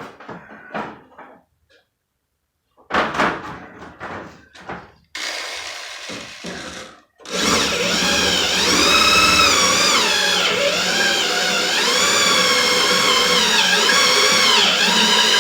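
A few clicks and knocks, then a hand-held electric drill runs under load for about nine seconds, its pitch wavering as the bit cuts through the head of an aluminum rivet holding the truck door's window regulator.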